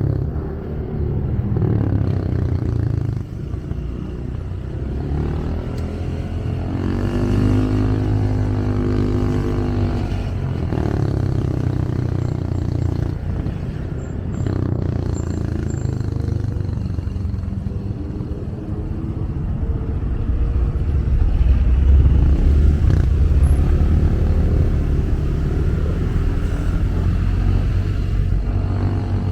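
Motorcycle engine running under a passenger through city traffic, with a steady low rumble. Its pitch rises and falls about a quarter of the way in, and the rumble is loudest about two-thirds of the way through.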